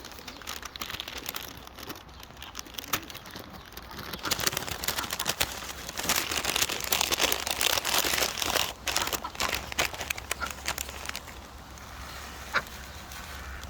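Ducks and other birds feeding in a frenzy: a dense, irregular crackle of bill clicks and pecking, thin at first, thickest through the middle, then easing off.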